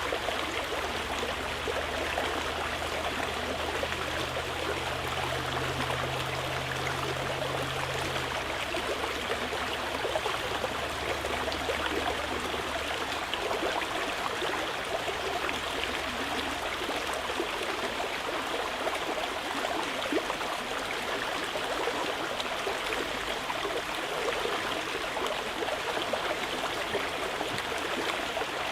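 Mountain river rushing and gurgling steadily over rocks.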